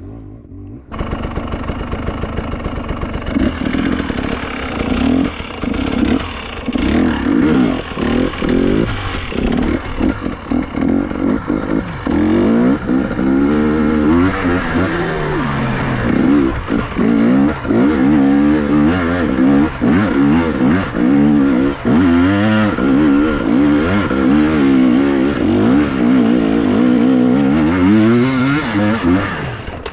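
KTM two-stroke enduro motorcycle engine under riding load off-road, revving up and down again and again as the throttle opens and closes through the gears. It picks up loudly about a second in.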